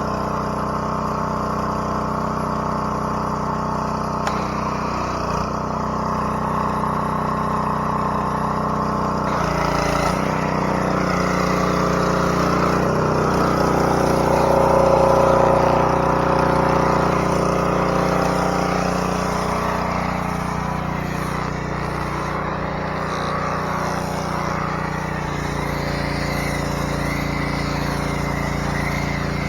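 An engine running steadily, growing a little louder about halfway through and then settling back.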